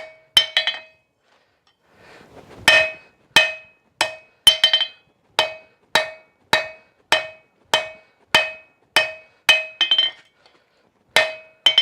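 Hand hammer striking hot reo bar on an anvil to forge a tong blank, with a ringing note after each blow. Two quick blows, a short pause, then a steady run of about three blows every two seconds.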